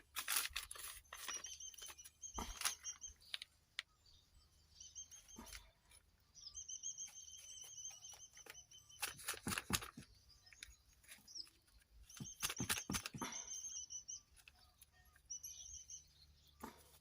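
Scrapes and rustles of potting mix being packed into a plastic nursery bag by hand, loudest about halfway through. A bird sings long, rapid trills in the background.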